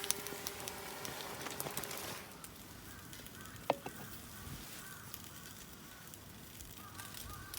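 Fire crackling with a steady hiss and sharp pops. The hiss drops away about two seconds in, leaving a quieter fire with a single loud pop a little later.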